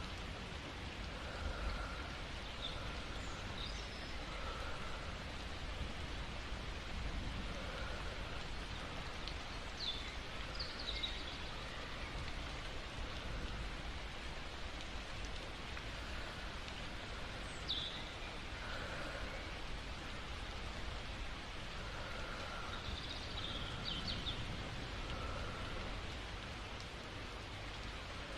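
Steady rain falling, an even hiss of drops, with a few faint short high chirps now and then.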